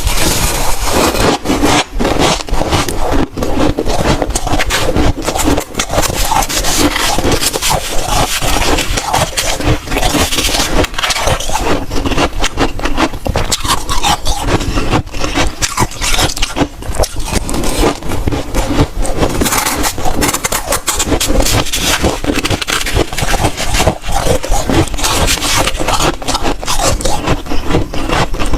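Close-miked crunching of soft, dry freezer frost ice: a dense, continuous crackle of many small crunches.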